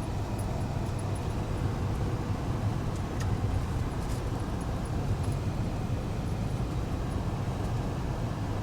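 Steady low rumble of a vehicle's engine and tyres, heard from inside the cab while driving on a snowy road.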